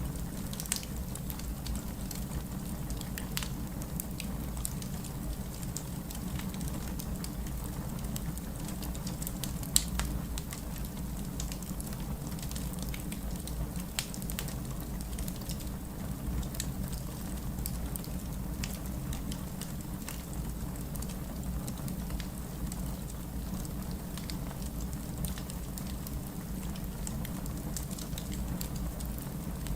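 Crackling wood fire over steady heavy rain. The rain is a constant hiss, and the fire adds scattered sharp pops and snaps, the loudest about ten seconds in.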